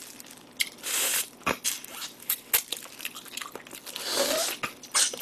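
Close-miked eating: biting and chewing meat off a pork bone from gamjatang (pork-bone stew), with a few sharp clicks and two longer noisy bursts about one second and four seconds in.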